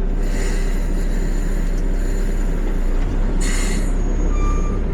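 Peterbilt 520 garbage truck's diesel engine running with a steady low rumble, heard from inside the cab. About three and a half seconds in there is a short burst of hiss, followed by a brief high squeal.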